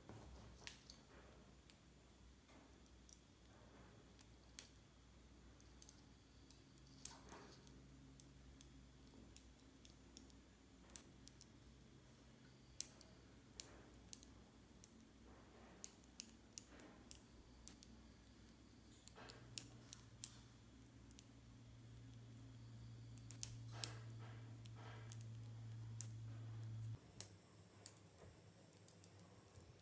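Small magnetic balls clicking as they snap together, in sharp irregular clicks. Under them is a faint low hum that builds and then cuts off suddenly near the end.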